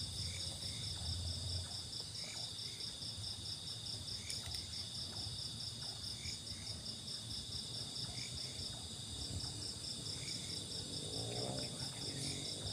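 Night chorus of crickets and other insects: a steady, rapidly pulsing high trill and a continuous high buzz, with a short double chirp repeating about once a second.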